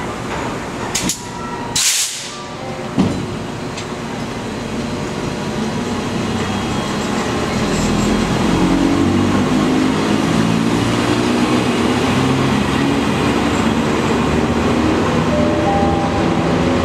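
Taiwan Railway electric locomotive E309 pulling a freight train away from a standstill: two short hisses about one and two seconds in and a sharp clank near three seconds, then the traction motors' hum climbs steadily in pitch and grows louder as the train gathers speed.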